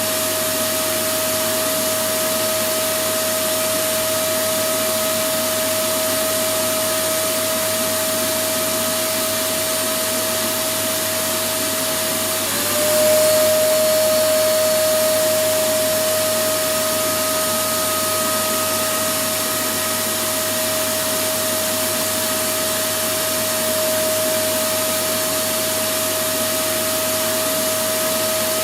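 Electric vacuum cleaner running continuously: a steady, high motor whine over a broad rushing hiss. About twelve seconds in, the whine dips briefly in pitch and the sound gets slightly louder, then settles back to steady.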